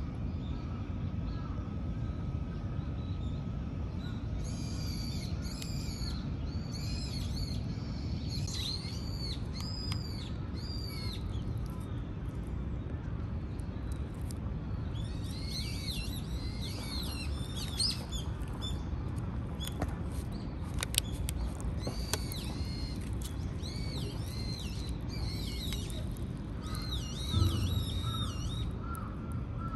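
Small birds chirping, repeated bursts of short arched high notes, over a steady low rumble of outdoor background noise.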